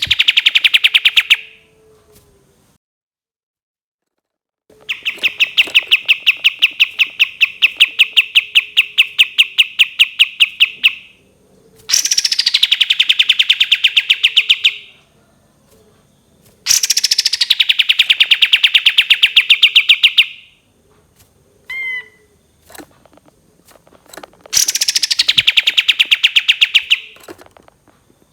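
Kapas tembak songbird giving long, rapid rattling trills, the 'tembakan' (shot) phrases prized by bird keepers. There are about five phrases, each opening with a quick falling note and then running for several seconds as fast, evenly spaced notes, with short pauses between them.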